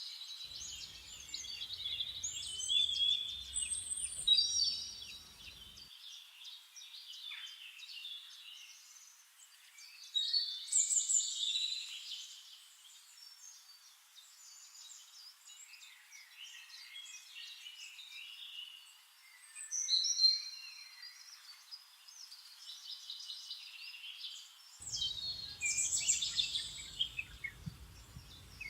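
Several wild birds calling and singing, a mix of quick chirps and short whistles that comes in bursts, loudest about 3 to 5 seconds in, around 10 to 12 seconds and around 20 seconds.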